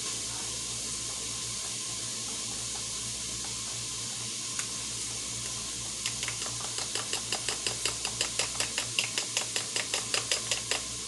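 Spoon stirring cornbread batter in a mixing bowl: after about six seconds, rapid rhythmic clicks of the spoon against the bowl, about five strokes a second, growing louder. Under it, a steady sizzling hiss of onions sautéing in an Instant Pot.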